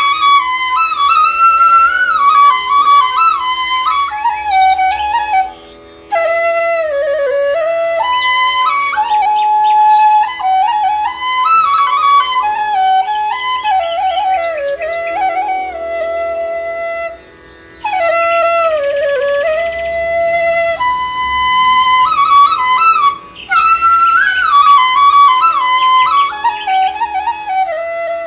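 Background music: a flute playing a slow, ornamented melody over a steady drone, in phrases with short pauses between them.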